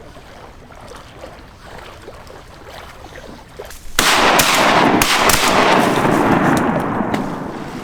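A volley of shotgun shots from several duck hunters firing together at mallards over decoys, starting suddenly about four seconds in. Several shots come in quick succession and the din fades over the next few seconds.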